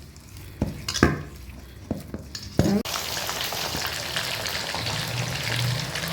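A few light knocks, then about three seconds in a steady sizzle starts suddenly: chicken fry pieces frying in hot oil.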